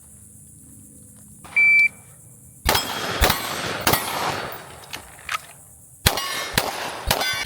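A shot timer's start beep about a second and a half in, then a fast string of 9mm pistol shots in two bursts, with steel targets ringing after the hits.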